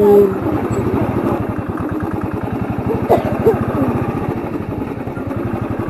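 Royal Enfield Thunderbird 350X's single-cylinder engine running at low revs, a steady, even beat of rapid firing pulses.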